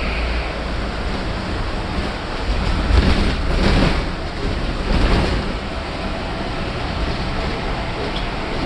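Cabin noise of a 2010 Blue Bird cutaway bus on the move: a steady low rumble with rushing road and wind noise, swelling louder a few times around three to five seconds in.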